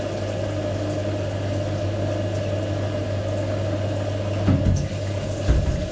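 Hot water running from a tap into a bucket, with a steady low hum throughout and a couple of dull knocks near the end.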